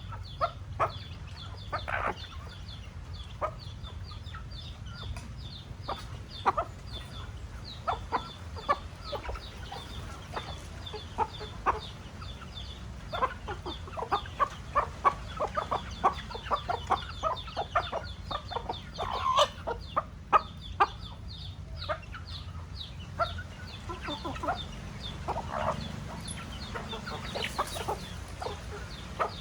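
Chickens clucking: many short, sharp clucks scattered through, busiest in the middle, over a steady low background hum.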